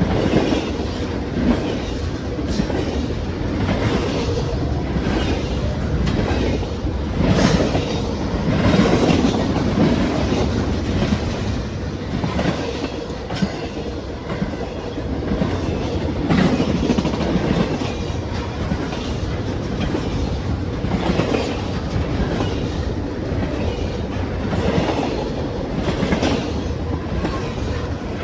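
Norfolk Southern freight train cars rolling past with a steady rumble, their wheels clicking over the rail joints again and again.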